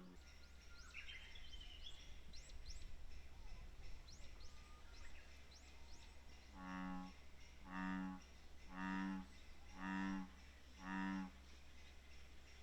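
Bullfrog calling from the pond: five low, moo-like croaks about a second apart in the second half.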